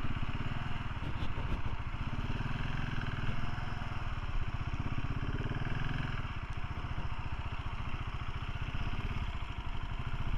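Motorcycle engine running steadily, with an even rush of noise alongside it.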